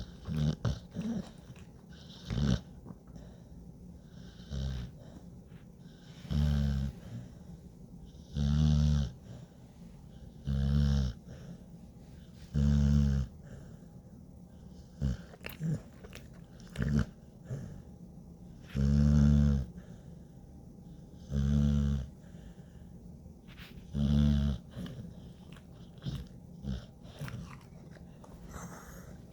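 American bully dog snoring: loud, low snores about a second long, coming roughly every two seconds, with a pause of several seconds in the middle and short clicks in between.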